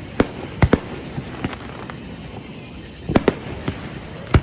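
Fireworks going off: sharp bangs at irregular intervals. Two come close together under a second in, a quick cluster follows about three seconds in, and a loud one lands near the end, over steady background noise.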